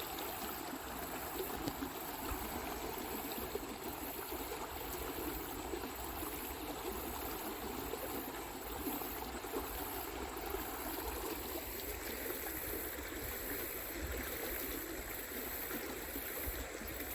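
Stream water running steadily down a rough, rocky stretch of rapids.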